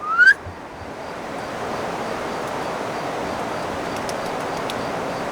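A short rising squeak right at the start, then a steady rushing hiss that grows louder about a second and a half in, with a few faint ticks near the end.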